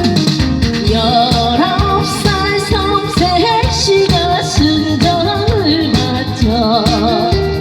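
A woman singing a Korean trot song live with heavy vibrato over an amplified backing track.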